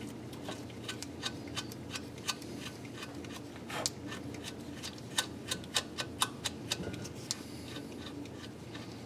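Irregular sharp clicks and taps of hand tools working the exhaust studs with a thread-repair kit. They bunch into a quick run of about a dozen clicks around the middle, over a faint steady hum.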